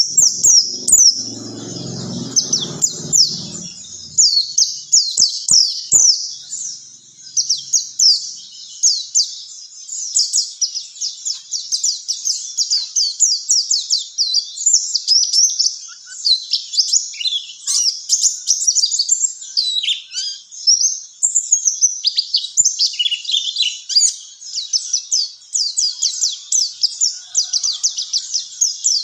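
Pleci (white-eye, Zosterops) singing a fast, continuous run of high twittering chirps. A brief low rumble sits under the song in the first few seconds.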